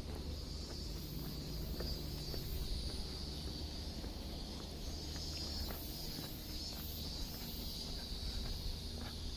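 Insects chirring outdoors: a steady high-pitched buzz that swells and fades, over a low rumble, with faint footsteps.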